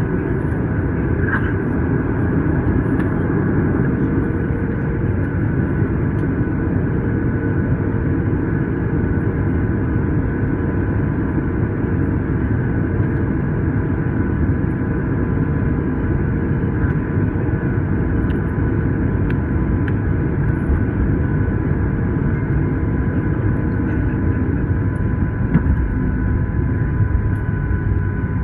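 Steady cabin noise inside a Boeing 737-900 taxiing after landing: a low rumble of the idling engines and the air conditioning, with a faint steady whine.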